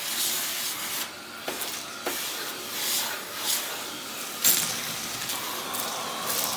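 Heat gun blowing hot air in a steady hiss, with several sharp clicks and taps from tools working the phone's housing.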